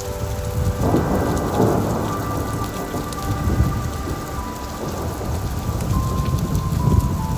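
Steady rain with a rolling rumble of thunder that builds about a second in and swells again near the end.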